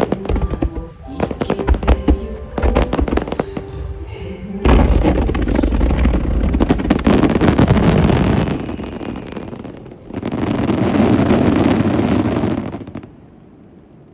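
Fireworks in a grand-finale barrage over music: many sharp shell bursts at first, then a dense, continuous rush of bursts and crackle that cuts off suddenly near the end.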